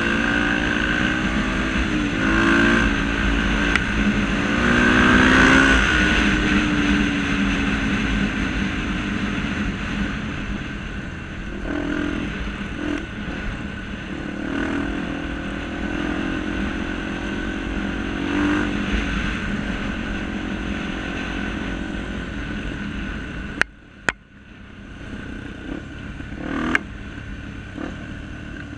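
Trail motorcycle engines running and revving, their pitch rising and falling. Near the end the sound drops away abruptly for a moment between two sharp clicks, and another sharp click follows a few seconds later.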